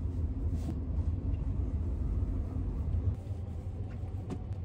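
Steady low rumble of the Sunrise Izumo sleeper train running, heard from inside the carriage, with a few light clicks and rustles as bedding and a backpack are handled.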